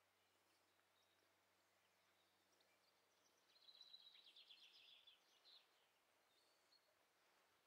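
Near silence with faint birdsong: a small bird's rapid, high trill starts about three and a half seconds in and lasts about two seconds.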